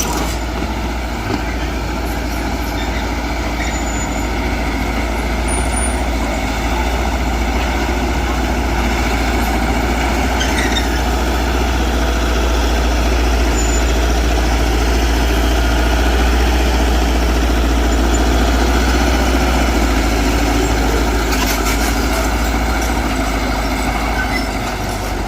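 Diesel engine of earthmoving machinery running steadily under load, with a deep rumble. It grows slightly louder through the middle and eases off near the end.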